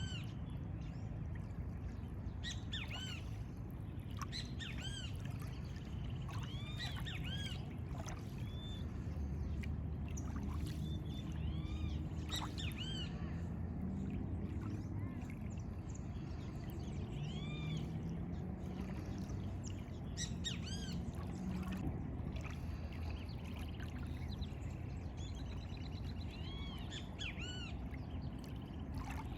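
Several songbirds chirping and calling in short, repeated arched notes that come thick and fast throughout, over a steady low rumble.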